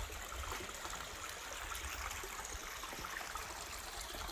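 Shallow creek running steadily over rocks, a soft, even trickle of flowing water, with a low rumble underneath.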